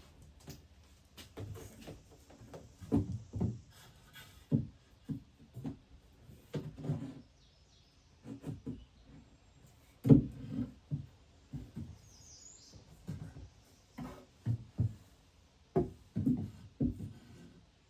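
Irregular knocks and thuds, like wooden cabinet boxes and panels being handled and fitted, with the loudest knock about ten seconds in.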